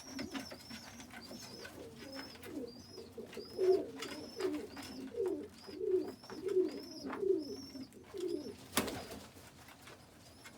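Pigeons cooing, a run of repeated coos about every 0.7 s in the middle, over a steady string of short, high, thin peeps. A single sharp click comes near the end.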